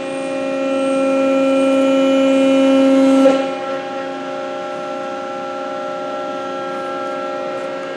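Hydraulic pump of a 90-ton Cincinnati Autoform CNC press brake running with a steady multi-tone whine. The whine grows louder for about three seconds, then drops back with a brief click just past three seconds in and runs on steadily.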